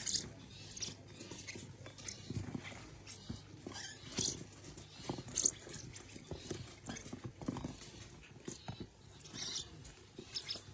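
A parrot making short, high squeaks and chirps, scattered at irregular intervals over soft clicking and scuffling.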